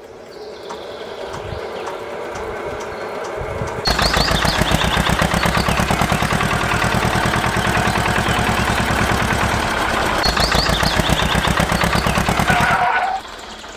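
An engine running with a rapid, even chugging. It builds over the first few seconds, runs loud, then cuts off sharply near the end.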